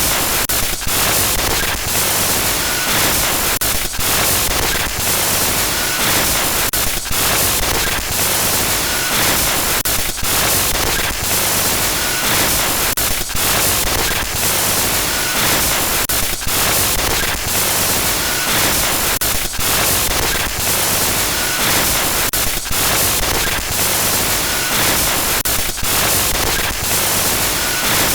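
Harsh, loud static noise from a synthesized glitch sound effect, steady but broken by frequent brief dropouts, with a faint short blip recurring every three seconds or so.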